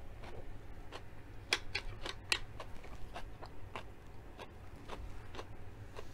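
Close-up chewing of crunchy shredded-cabbage coleslaw: a run of sharp, irregular crunches and wet mouth clicks.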